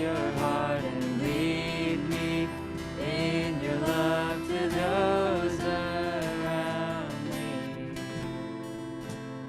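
Live worship band music led by acoustic guitar: a gliding melody line over held chords, growing quieter over the last couple of seconds.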